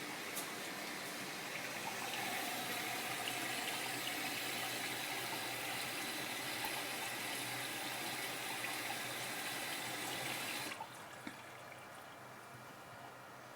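Washing machine filling with water at the start of a wash cycle: a steady rush of water into the machine that cuts off suddenly near the end, leaving a quieter background hum.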